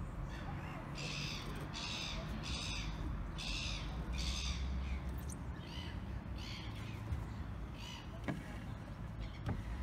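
A bird calling over and over in short calls, roughly one or two a second, which stop about seven and a half seconds in.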